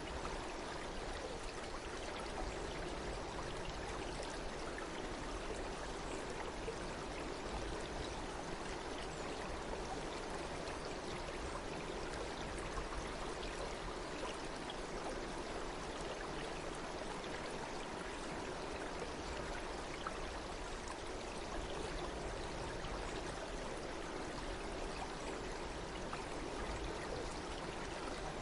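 Water of a stream flowing steadily, an even rushing and trickling without pause.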